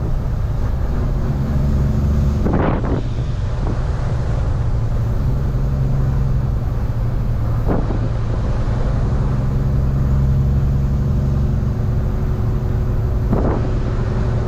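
Tractor-trailer's diesel engine running steadily while driving, with a deep hum, plus three short sharp sounds spread through it.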